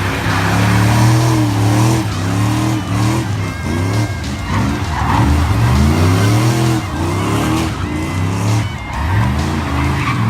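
1966 Chevrolet C10's 383 stroker small-block V8 revving up and down over and over while the rear tyres spin and squeal.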